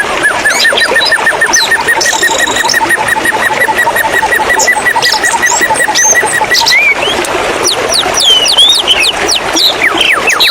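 White-rumped shama calling over running water: a fast, even string of repeated chirps for about six seconds, then varied whistled notes and quick falling sweeps.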